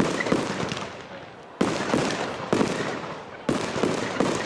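Aerial fireworks bursting overhead: a series of about six sharp bangs at uneven intervals, each followed by a fading echo.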